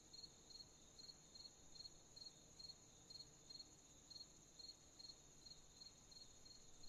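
Crickets chirping at night, faint: one gives short, evenly spaced chirps a little over twice a second over a steady, higher-pitched insect trill.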